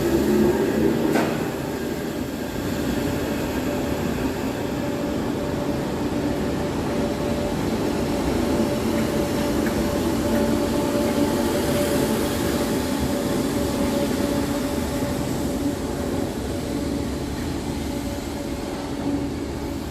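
Underground electric train running out of a station: a steady rumble of wheels on track with a constant motor hum, and a short clack about a second in.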